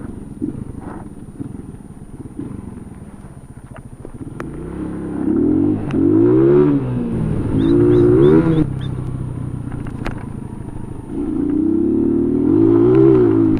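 Motorcycle engine running low, then revved up and down three times, its pitch rising and falling with each surge.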